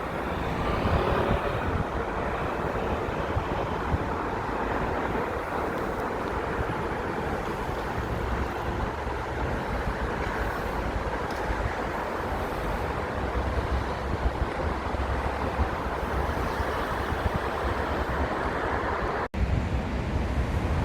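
Steady outdoor noise: wind buffeting the microphone over a constant rumble that fits passing road traffic. The sound cuts out abruptly for a moment about nineteen seconds in.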